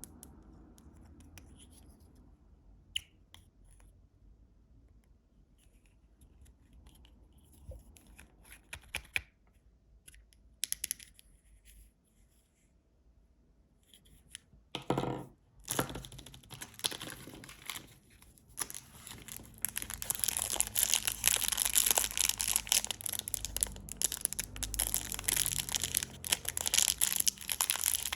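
Candy wrappers being handled and torn open: a few faint crinkles and taps at first, then from about halfway a loud, continuous crinkling and tearing of the packaging.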